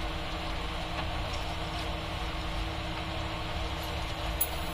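Steady sizzle of a mustard and poppy-seed paste masala frying in oil in an iron kadai as a spatula stirs it, over a low steady hum. A short sharp tick near the end.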